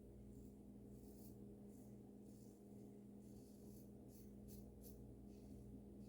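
Near silence: a faint steady low hum with a few soft, short high ticks.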